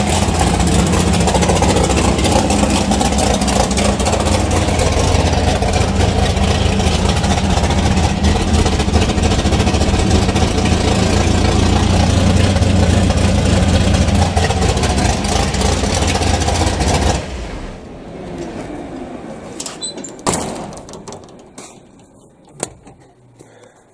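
Big-block Chevy V8 in a drag car, back running after about 15 years in storage, idling with a loud, steady, deep note, then shut off suddenly about 17 seconds in. A few clicks and knocks follow.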